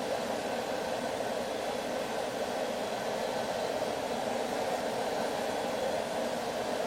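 A steady, unbroken rushing noise from an air blower running continuously.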